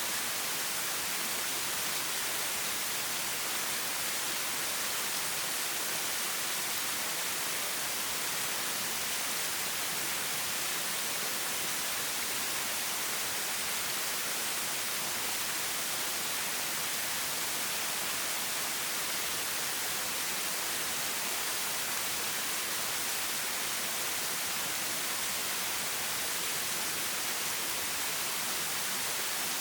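Flowing stream water running steadily, an even hiss with no change in level and no birdsong standing out.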